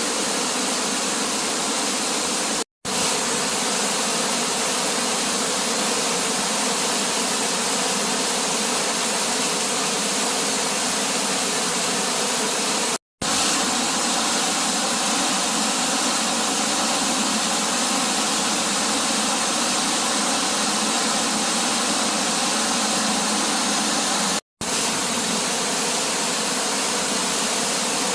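Steady rush of a waterfall, broken three times by a split-second silence.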